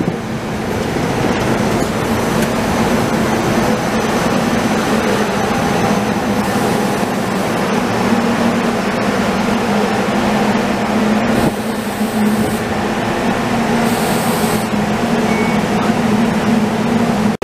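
SEPTA Silverliner IV electric multiple-unit cars rolling slowly into the station close by: a loud, steady running noise with a low hum and a few sharp clicks from the wheels on the rails.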